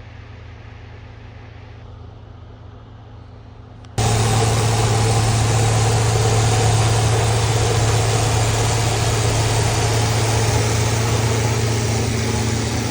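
Snow-removal equipment engines running steadily: a quieter hum at first, then, after a sudden cut about four seconds in, a much louder close-up engine with a rushing noise over it.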